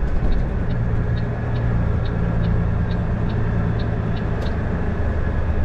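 Truck engine running steadily, heard from inside the cab, with the turn signal ticking at an even pace, about two to three clicks a second.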